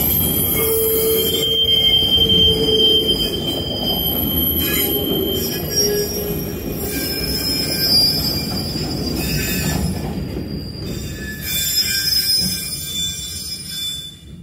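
Freight train of enclosed car-carrier wagons rolling past. Its wheels squeal in several high-pitched tones that come and go over the low rumble of wheels on rail. The sound fades as the last wagon goes by near the end.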